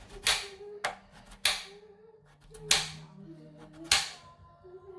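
Knife chopping through potatoes onto a cutting board: five sharp chops at uneven intervals.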